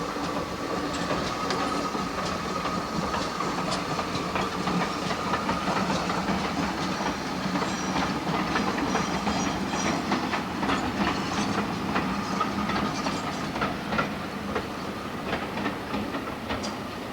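Steam-hauled passenger train running, led by a Great Western large prairie tank engine: a steady rumble with many sharp clicks of wheels over the rail joints, and some steam hiss.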